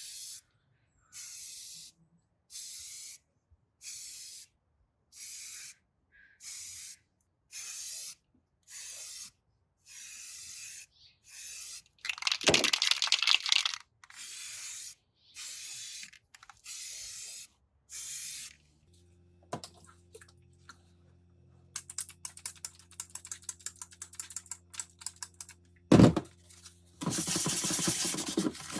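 A series of about a dozen short spray hisses, each about half a second, with one longer, louder spray partway through. Later a low steady hum with light crackling comes in, then a single sharp knock, and near the end a scratchy rubbing begins.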